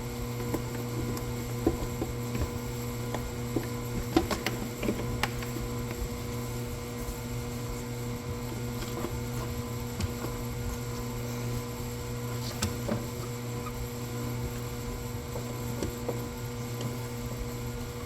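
Scattered light clicks and knocks of car parts being fitted back into the engine bay, with a cluster of sharper knocks about four to five seconds in, over a steady electrical hum.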